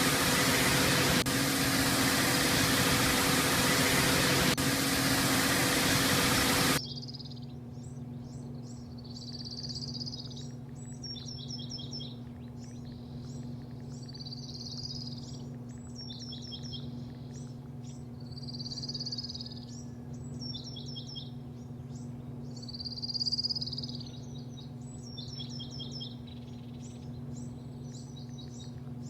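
Loud steady rushing noise of car wash equipment that cuts off suddenly about seven seconds in. Then birds chirp in repeated quick runs of high notes over a low steady hum.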